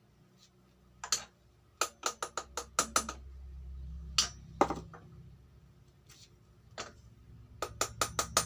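Sharp metallic clinks and taps, several in quick runs, from tools and fittings being handled while a motorcycle cylinder block is set level on a boring machine, over a faint low hum that swells in the middle.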